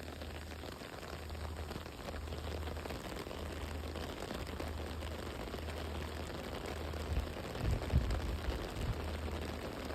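Heavy rain in a storm, a steady hiss of rain with a low rumble, and a few low thumps about seven to eight seconds in.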